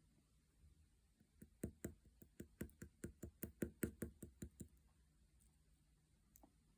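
Clear slime being squeezed and poked with the fingers, giving a quick run of about fifteen sharp pops and clicks, about five a second, from about a second and a half in until near the middle, then only a stray click or two.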